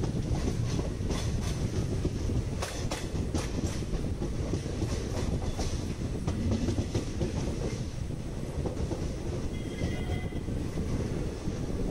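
Passenger train running along the line, heard from aboard: a steady rumble with the wheels clicking over rail joints, a run of clicks between about one and four seconds in.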